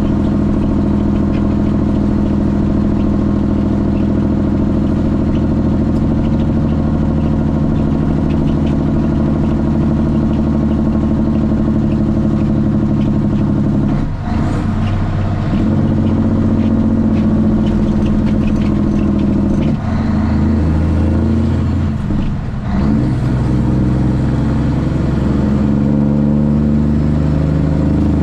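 Straight-piped Cummins ISX inline-six diesel in a Kenworth T800 running steadily, heard from inside the cab. About halfway through, the engine note briefly dips and changes pitch, and it does so twice more a few seconds later before settling back to a steady drone.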